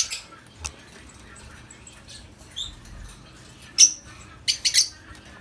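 Lovebirds giving short, shrill chirping calls: one at the start, a loud one a little before four seconds in, and a quick run of three soon after.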